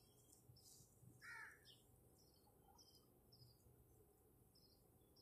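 Near silence with faint bird calls: short high chirps repeating about every half second, and one slightly louder call a little over a second in.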